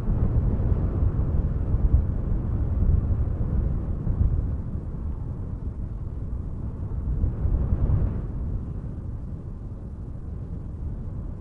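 Steady low rumble of wind and road traffic.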